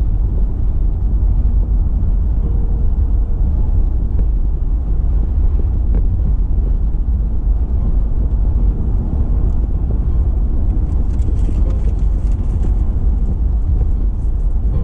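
Steady low rumble of a car driving on the road: tyre and engine noise.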